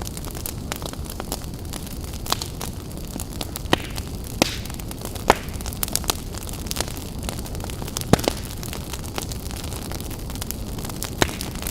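Campfire crackling: irregular sharp pops and snaps from burning wood over a steady low rushing noise, with a few louder pops about five and eight seconds in.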